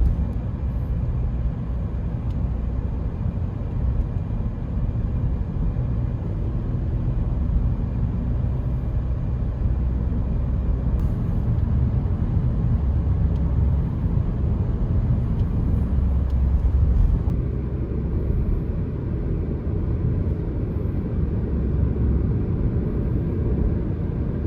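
Steady low rumble of a car driving, road and engine noise heard from inside the car.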